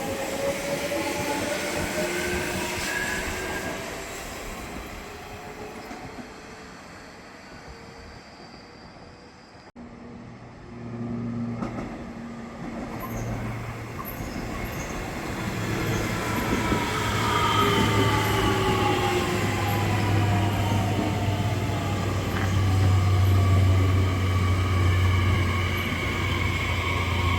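Nishitetsu electric trains at a station: an electric train's motor whine climbs in pitch and fades as it moves off. From about ten seconds in, another train approaches, with a low hum and rail noise growing louder and motor whines falling in pitch as it slows.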